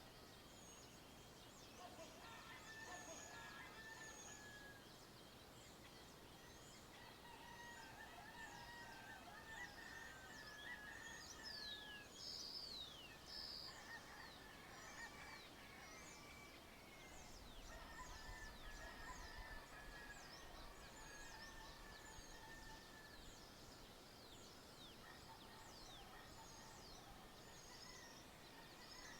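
Faint dawn chorus of many birds: rapid high chirps throughout, with longer warbling calls rising and fading over a soft outdoor hiss.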